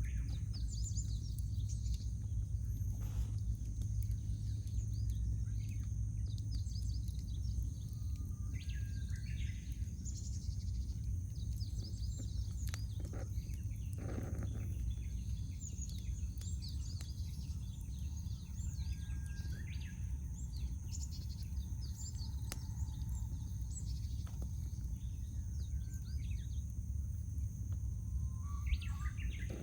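Small wild birds chirping and calling over a steady low rumble, with a few pops from a wood campfire.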